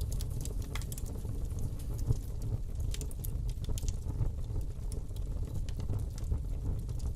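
Wood fire burning in a fireplace: a steady low rumble of flame with many small, irregular crackles and pops, one a little louder about two seconds in.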